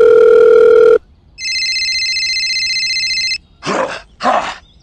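Edited telephone sound effects: a loud steady electronic beep cuts off about a second in, then a trilling electronic phone ring lasts about two seconds, followed near the end by two short voice sounds.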